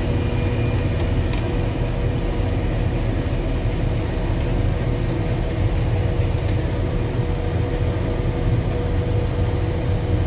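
Volvo L70H wheel loader with snow blower attachment running steadily, heard from inside its cabin: a deep engine drone with a steady whine above it.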